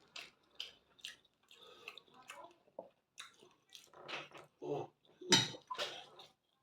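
Close-miked wet chewing and lip-smacking, a run of irregular short smacks and squishes, the loudest a little over five seconds in.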